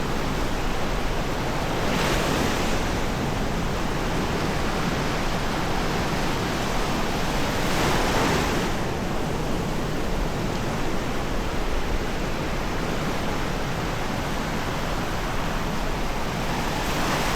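Sea surf washing onto a sandy beach: a steady wash of waves, with a couple of louder swells about two and eight seconds in.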